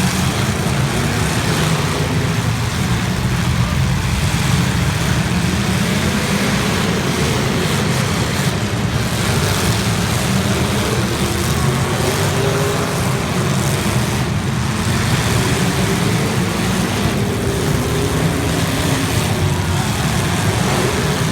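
Demolition derby cars' engines running loud and steady, a continuous low rumble.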